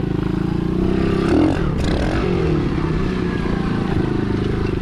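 Engine of a cheap 125cc Chinese pit bike revving up and down while it is ridden, its pitch rising and falling several times.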